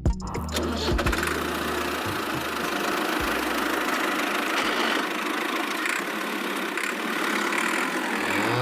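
Engine running steadily, a continuous even mechanical noise with a deep low hum underneath that drops away about a second in.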